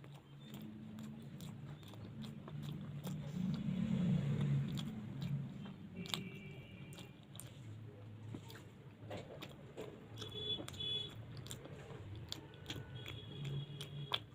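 A person biting and chewing luchi with potato curry close to the microphone, with many small mouth clicks.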